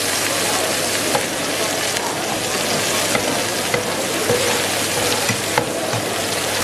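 Beef burger patties sizzling in hot oil in a frying pan: a steady hiss with scattered small pops and crackles.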